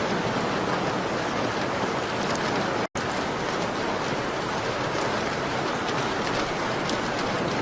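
Steady rain on a window pane: a dense, even hiss with faint scattered drop ticks. The sound cuts out for an instant about three seconds in, then carries on unchanged.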